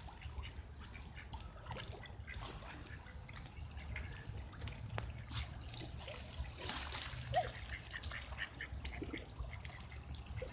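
Ducks calling now and then, with faint splashing and trickling of water, over a steady low rumble.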